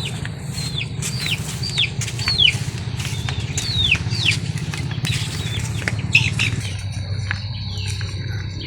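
Birds calling with short, quickly falling chirps, several a second, over a steady low hum, with a few sharp clicks. The chirps thin out about six seconds in, and a steady high tone takes over.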